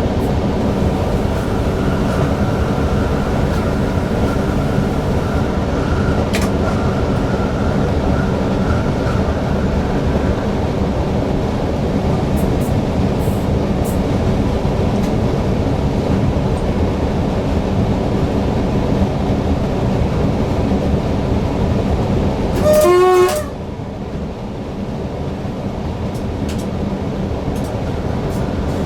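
Newag Impuls EN63 electric multiple unit running at speed, heard from the driver's cab: a steady rumble of wheels and motors, with a faint high whine over the first third. About three-quarters of the way through comes one short blast of the train horn, the loudest sound, and the running noise eases after it.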